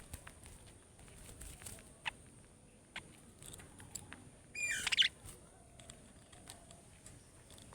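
Small pet parrots chirping softly with scattered clicks and short peeps, then one louder burst of rapid chattering chirps about two-thirds of the way in.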